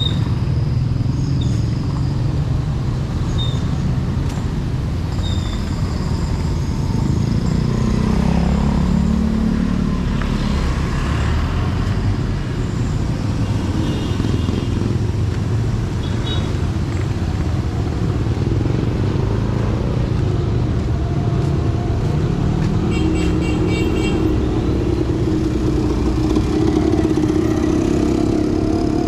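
Street traffic: car and motorcycle engines running and passing, a steady low rumble with engines rising and falling in pitch as vehicles go by.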